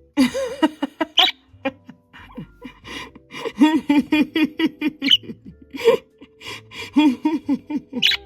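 A pet parrot chattering: a fast, continuous run of short chirps and squawks, several a second, in the bird's talking babble.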